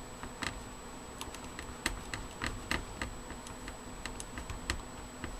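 Irregular light clicks and taps, roughly two a second, as a CPU heatsink is worked loose from a motherboard by hand.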